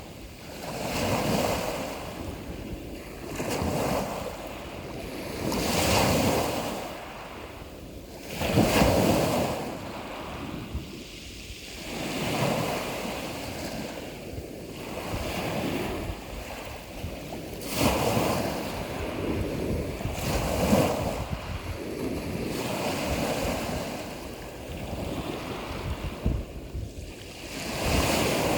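Ocean waves breaking and washing in, a rushing surge that swells and falls away every two to three seconds.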